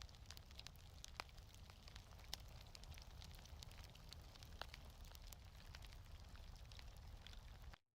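Fireplace fire crackling quietly, scattered sharp pops over a low steady rumble, cutting off abruptly near the end.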